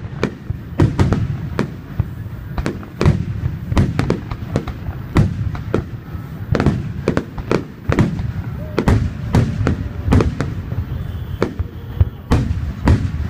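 Aerial fireworks shells bursting in quick succession, several booms a second over a continuous low rumble, as in a display's finale barrage.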